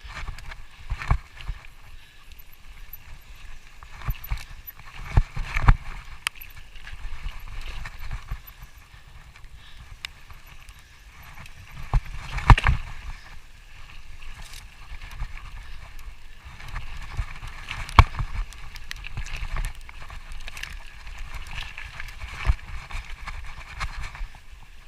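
Footsteps of hikers walking on a dirt and rock trail: uneven thumps and scuffs, some louder knocks, over a faint steady hiss.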